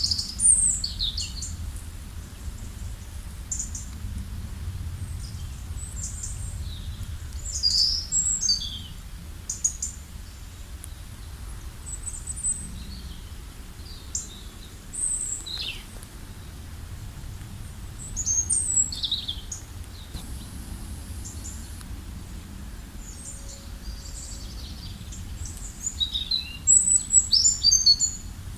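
Songbirds chirping and calling in short, quick high notes, busiest about eight seconds in, around nineteen seconds and near the end, over the steady low sound of a flowing river.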